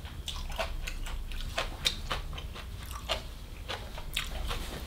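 Close-miked chewing of a mouthful of stir-fried morning glory (pak boong fai daeng), with irregular crunches and mouth clicks a few times a second.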